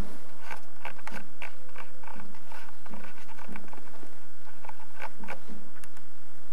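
An irregular run of light clicks and taps with short, dull low knocks among them, clustered in the first few seconds and again about five seconds in.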